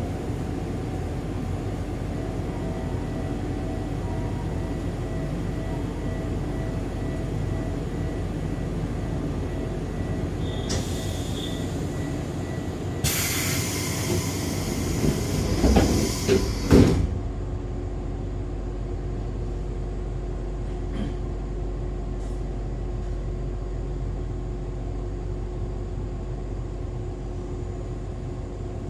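Echizen Railway MC6101-series electric railcar with MT54 DC series traction motors running along the line: steady wheel and running noise with a faint steady whine. About halfway through, a loud hissing rush with a few knocks lasts several seconds, then the steady running continues.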